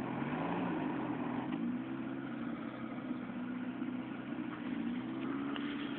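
Four-wheel-drive vehicle's engine running at a low idle. Its pitch dips and rises slightly in the first two seconds, then holds steady.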